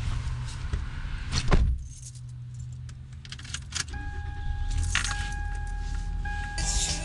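Car door slammed shut about a second and a half in, with keys jangling and light clicks around it over a low car rumble. A steady held tone comes in about four seconds in as background music begins.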